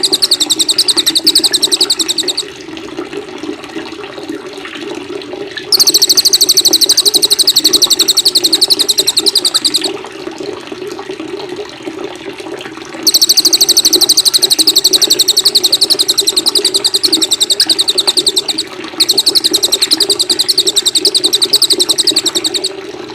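Songbird singing in long, very rapid trills of high repeated notes, four bursts of a few seconds each, over a steady sound of running water.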